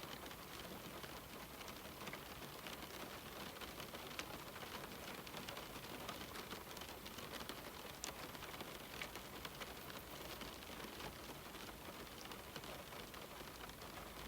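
Steady rain falling on a window: an even hiss of rain with many small drop ticks, and a couple of sharper drop hits about four and eight seconds in.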